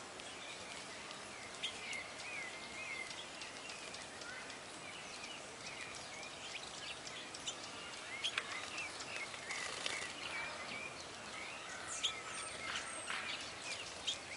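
Several small songbirds chirping and giving short whistled calls, scattered and overlapping, over a steady background hiss.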